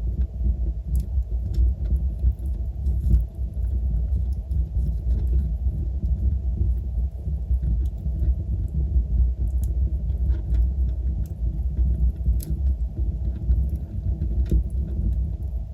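Wood fire burning with a steady low rumble, broken by scattered sharp crackles and pops, the clearest about twelve seconds in.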